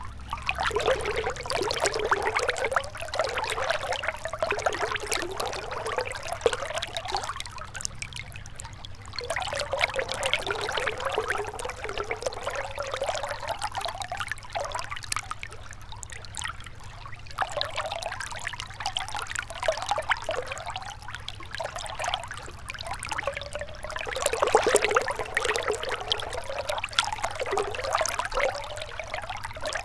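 Gentle river water flowing and trickling, swelling and easing every few seconds.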